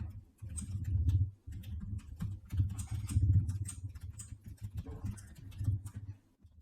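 Irregular clicks and taps, as from a computer mouse and keyboard, over low rumbling thuds of handling at a desk.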